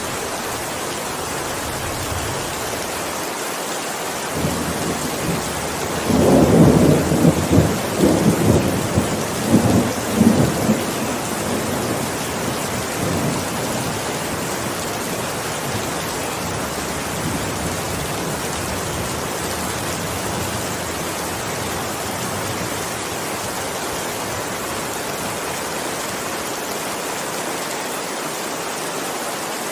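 Heavy rain falling steadily, with a roll of thunder that rumbles for about five seconds, starting about six seconds in.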